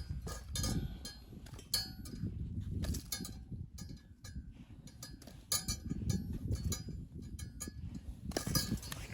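Metal objects clinking and knocking irregularly, some strikes ringing briefly, over a low rumble.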